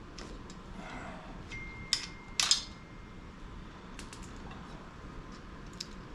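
Light metal clicks and clinks of hand tools on the outboard's lower-unit studs as the nuts are taken off, with two louder clinks about two seconds in.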